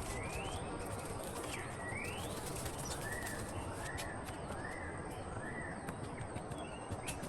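A bird calling: two whistled notes that dip and then sweep upward, followed by four shorter, evenly spaced arched notes. Under it runs a steady forest hiss with a thin high steady tone and scattered faint clicks.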